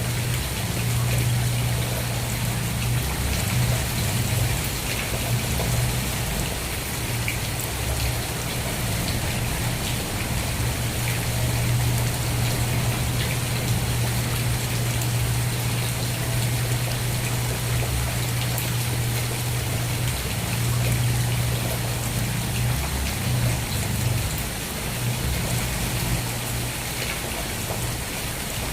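Steady rain falling, with many individual drops ticking through the hiss, over a steady low rumble.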